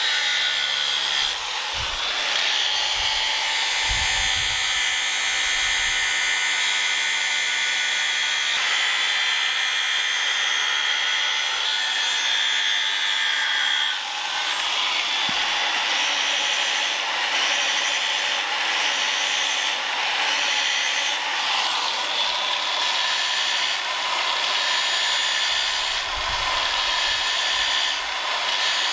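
Electric power tool running steadily on wood, its pitch and load shifting briefly about a second and a half in and again around fourteen seconds.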